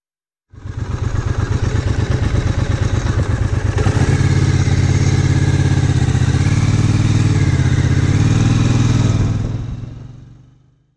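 Triumph Bonneville America's parallel-twin engine running with a loud, pulsing exhaust note, its pitch wavering a little as the bike rides. The sound cuts in about half a second in and fades out near the end.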